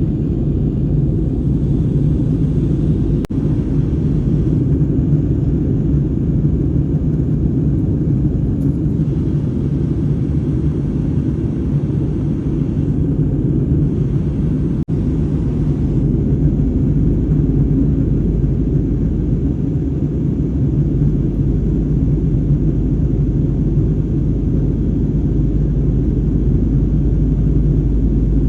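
Steady low rumble of a jet airliner's engines and airflow, heard from inside the passenger cabin during the descent.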